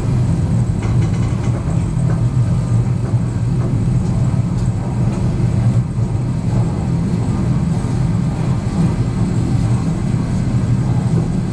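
Steady low rumble of a moving train heard from inside the carriage, its wheels running on the rails as it pulls out of the station, with a few faint clicks.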